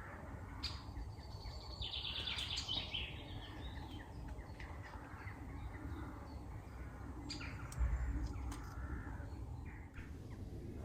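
Birds calling, among them the calls of jackdaws, with a rapid run of notes about two seconds in and more calls later. A low thump comes about eight seconds in.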